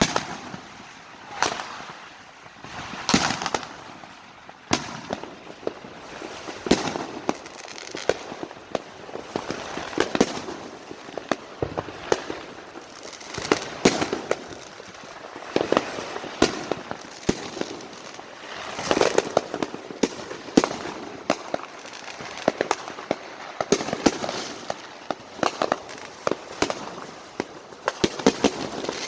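Fireworks and firecrackers going off continually: a steady crackle of small reports with louder single bangs every second or two.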